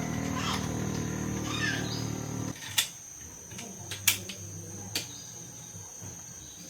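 A small motor runs steadily, then cuts off abruptly about two and a half seconds in, followed by three sharp clicks. Birds chirp and insects trill steadily in the background.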